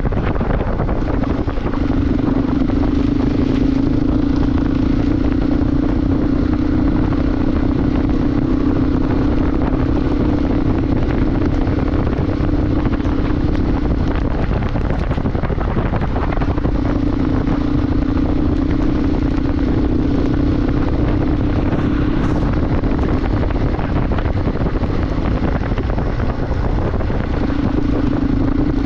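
Motorcycle engine running steadily under loud wind rush on the microphone while riding. The engine's hum drops away twice for a few seconds, about halfway through and again near the end.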